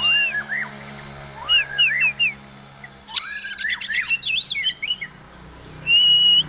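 Oriental magpie-robin (kacer) singing a varied run of whistled notes that slide up and down, with a quick flurry in the middle and one long held whistle near the end.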